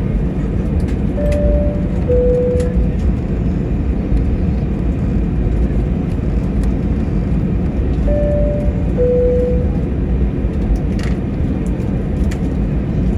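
Steady low rumble of an Airbus A321 cabin on the ground, with the engines and air conditioning running. Over it a two-tone high–low cabin chime sounds twice, about a second in and again about eight seconds in.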